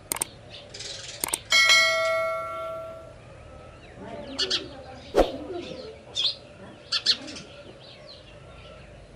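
House sparrows chirping, short sharp chirps at irregular intervals. About a second and a half in, a single loud bell-like metallic ring sounds and fades away over about a second and a half.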